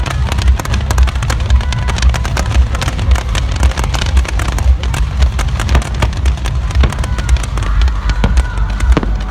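Fireworks and firecrackers going off continuously, a dense run of overlapping bangs and crackles over a steady low rumble, with a few faint whistles gliding in pitch.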